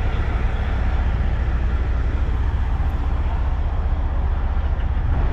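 Steady low rumble of idling diesel truck engines.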